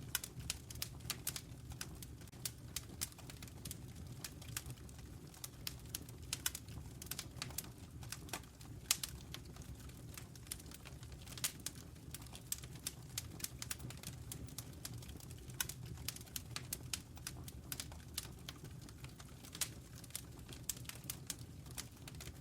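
Wood fire burning in a fireplace: a steady low rumble of flames under irregular sharp crackles and pops, several a second.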